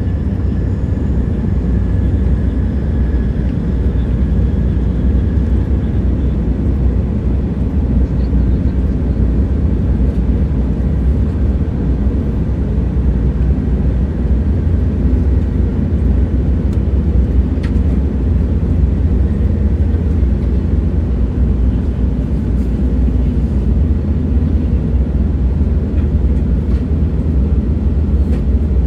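Train running at steady speed: a continuous low rumble, with a faint high whine that fades out over the first few seconds and a few light ticks.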